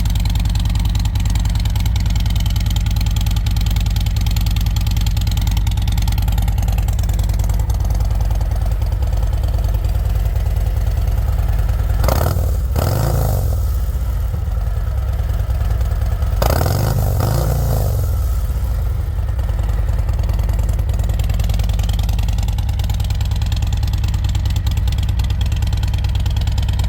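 Harley-Davidson Road Glide's Milwaukee-Eight 117 V-twin idling through freshly fitted Rinehart DBX45 4.5-inch slip-on mufflers, on its first startup with them. Around the middle it is revved twice, each rev rising briefly and dropping back to idle.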